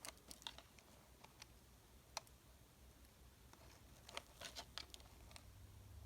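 Faint, scattered light clicks and taps from candy packaging being handled: a few near the start, one a couple of seconds in, and a quicker cluster near the end, before any unwrapping.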